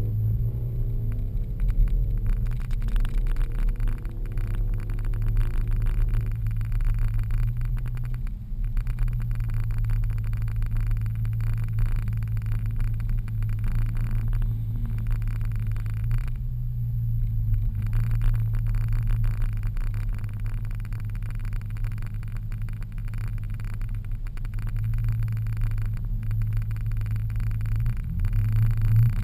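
Pontiac GTO's V8 idling low and steady, heard from inside the cabin as the car creeps forward, with small changes in engine speed and a brief rise in revs near the end.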